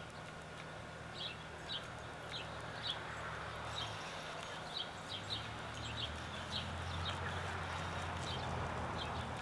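Small birds chirping outdoors: short, high chirps a few times a second, over a steady low hum and background noise.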